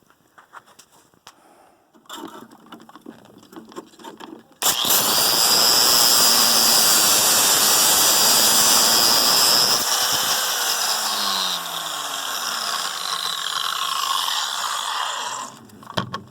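A few light clatters, then a power tool starts suddenly about four and a half seconds in and cuts into a buckled metal frame tube, a loud noise with a steady high whine, for about eleven seconds before stopping near the end.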